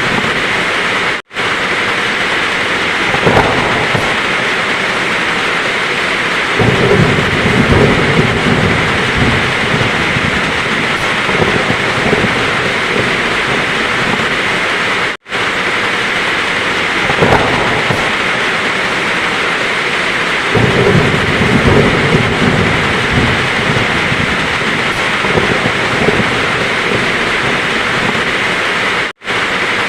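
Heavy rain falling steadily with rolling thunder, the low rumbles swelling up twice. The sound cuts out for a split second three times, about every fourteen seconds, where the recording loops.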